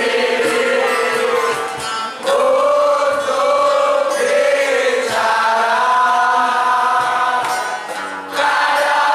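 Music with a group of voices singing together, in long held notes that break into phrases every couple of seconds.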